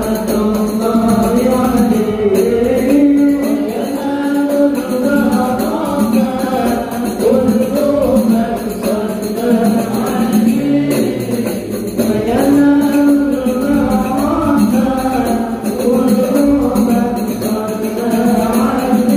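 Sholawat, an Islamic devotional song to the Prophet, sung with a steady drone and hand-percussion beat, in a drawn-out melodic line with long held notes.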